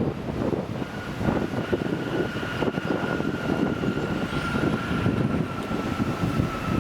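Jet airliner engines running, with a steady whine that begins about a second in and drifts slightly lower in pitch, over a gusty rushing noise.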